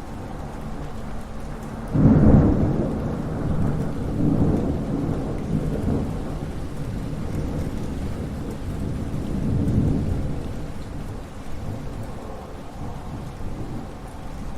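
Thunder over steady rain. A sudden loud crack of thunder about two seconds in rolls on in low rumbles, swells again twice, then slowly fades while the rain keeps falling.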